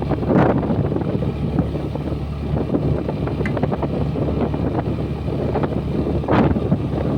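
Honda Dio 125 scooter's single-cylinder engine running steadily at riding speed, with wind buffeting the microphone in gusts about half a second in and near the end.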